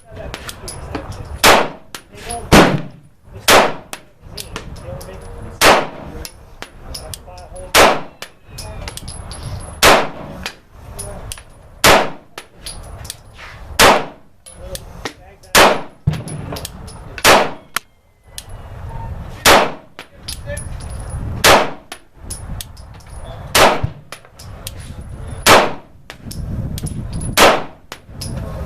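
Girsan MC21 9mm semi-automatic pistol fired in slow, deliberate shots, about fifteen in all, mostly one every two seconds, each shot followed by a brief ringing echo.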